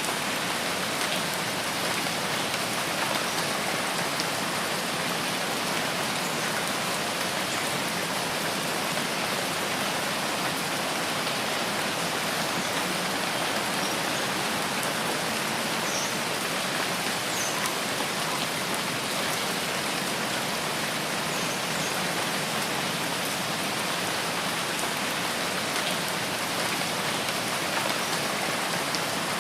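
Steady rainfall in a forest, an even hiss of rain on leaves and ground with no change in strength.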